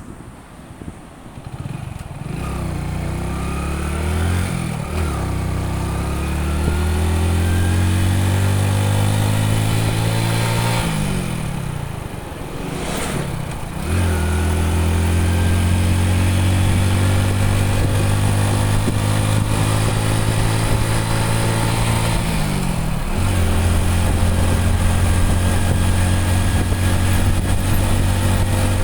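Motorcycle engine pulling away and accelerating up through the gears: the engine note climbs steadily, then drops back at each gear change, three or four times, over steady wind and road noise.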